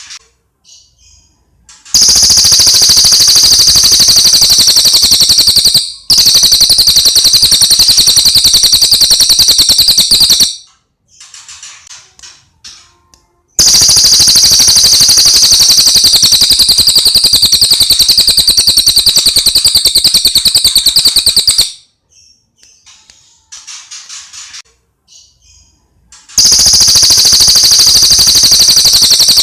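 Recorded songbird song for training cage birds: three long, loud runs of rapid, high-pitched rattling trill, each lasting several seconds, with quiet short chirps in the gaps between them.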